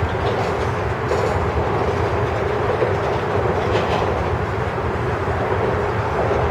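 Freight train of grain cars rolling past, a steady rumble of steel wheels on rail with some clickety-clack, and a couple of brief higher-pitched scrapes about one and four seconds in.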